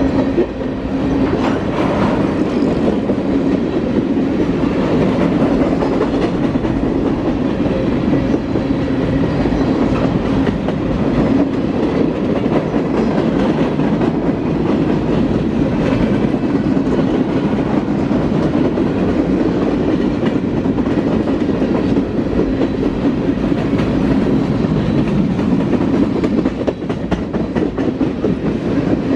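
Freight cars of a mixed freight train rolling past at close range: a steady rumble of steel wheels on the rails, with clickety-clack from the rail joints and a steady hum.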